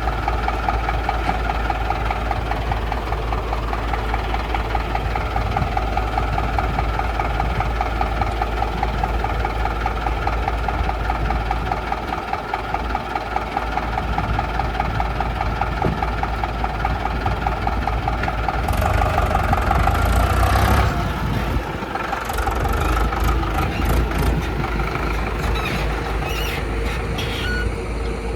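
Heavy diesel machinery engine running steadily, a surge in power about two-thirds of the way through, then scattered knocks near the end.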